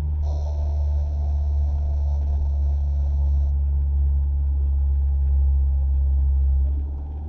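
Mazda MX-5 ND's four-cylinder engine and road noise heard inside the cabin while driving slowly, a steady low drone that eases off near the end. A faint high steady tone sounds over it for the first few seconds.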